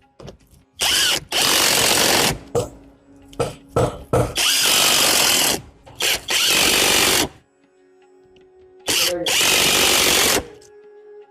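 A handheld power tool run in a series of loud bursts, each up to about a second and a half long, with short pauses between, during work on a truck axle housing.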